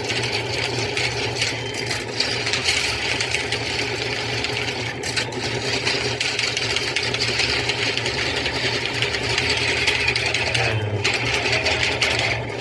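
Electric drain-cleaning machine running steadily, its motor humming as the cable works through a clogged main drain.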